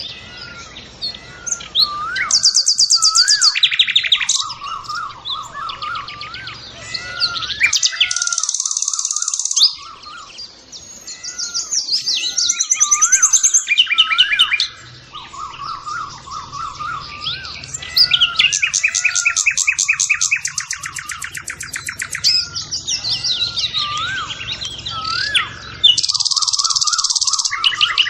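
Several birds singing together: a low warbling phrase repeats throughout, while bursts of rapid, buzzy high trills come and go every few seconds.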